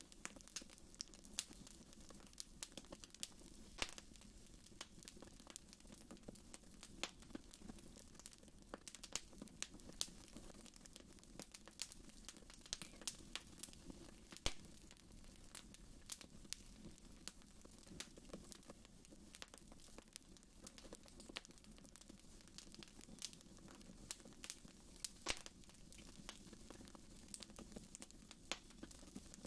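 Fire burning in a fireplace, crackling: irregular sharp pops and snaps, several a second, over a low steady sound of the flames. The loudest pop comes about halfway through.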